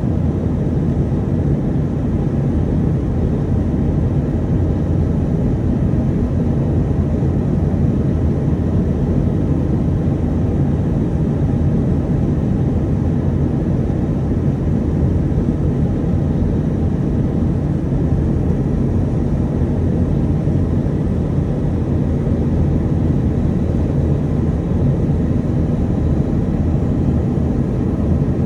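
Steady low rumble inside the cabin of an Airbus A320-212 in flight, from its CFM56 engines and the airflow, heard from a window seat during the descent for landing.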